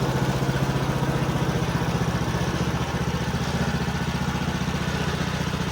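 Gasoline engine of a Woodland Mills bandsaw sawmill running steadily, its note shifting slightly about three seconds in.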